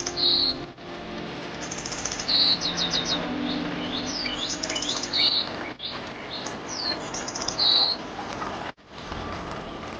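Songbirds chirping and whistling, with quick rising and falling notes and short rapid trills, over a steady wash of running water. The sound drops out abruptly for a moment near nine seconds in.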